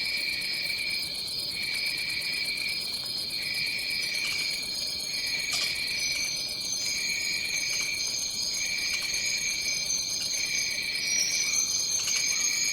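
Chorus of tropical forest insects: one high, steady drone, with a lower trill pulsing on and off about once a second, and a higher trill joining about halfway through.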